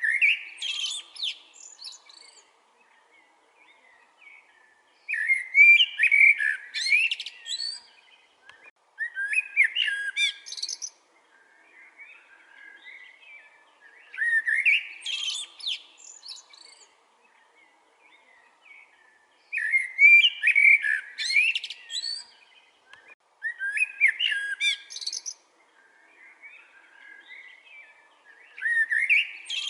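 Eurasian blackbird singing: about seven separate song phrases, each two to three seconds long, with pauses of a few seconds between them.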